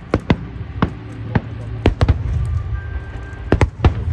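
Fireworks display: a rapid, irregular string of sharp bangs from shells bursting, about nine in four seconds, over a steady low rumble.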